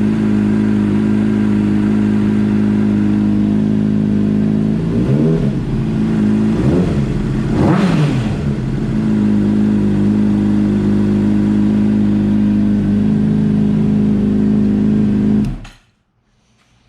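2007 Honda CBR600RR's 599 cc inline-four idling through an aftermarket slip-on exhaust, revved up and back down twice in the middle, then settling back to idle before the sound stops abruptly near the end.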